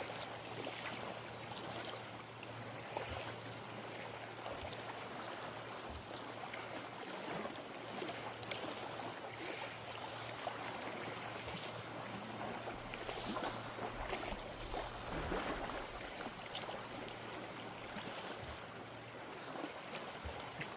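Lake water sloshing and splashing, with soft irregular splashes every second or two over a faint steady low hum.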